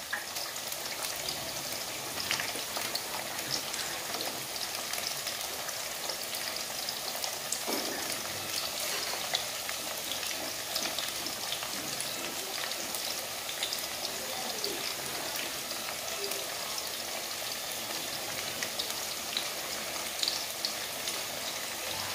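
Sweet potato slices frying in hot oil in a skillet: a steady sizzle with scattered small crackles and pops.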